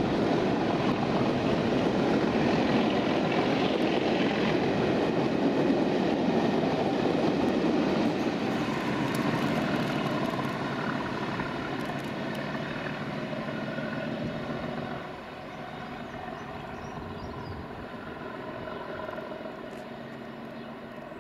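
Class 97 diesel locomotive running past, its engine drone loud at first and then fading away through the second half.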